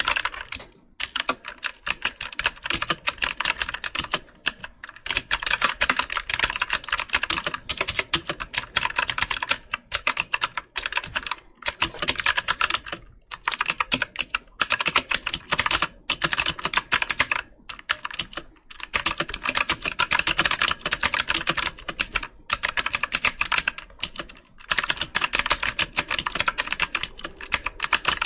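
Computer keyboard typing: rapid key clicks in runs of a few seconds, with brief pauses between bursts.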